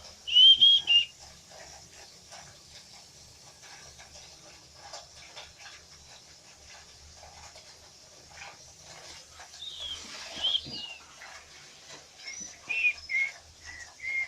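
Cockatiel whistling in short, warbled phrases: one right at the start, another about ten seconds in and a run of notes near the end, with faint rustling and clicking in between.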